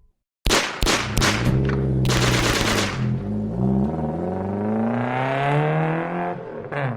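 A few sharp bangs and a burst of hiss, then a car engine accelerating, its pitch rising steadily for about three seconds.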